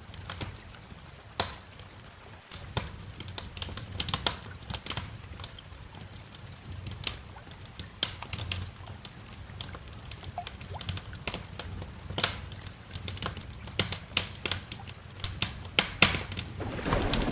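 Wood fire crackling in a fireplace: irregular sharp pops and snaps over a low steady rumble. A louder rush of noise swells near the end.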